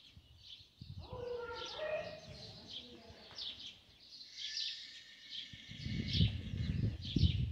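Small birds chirping repeatedly in short high calls, with a brief pitched call about a second in and a few dull low thumps near the end.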